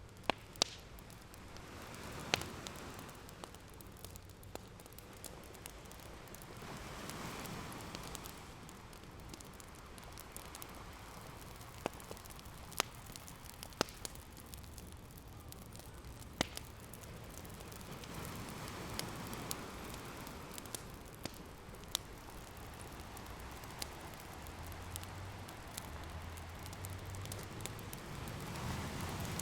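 Open fire crackling with scattered sharp pops, over ocean waves washing in as slow swells of hiss every several seconds.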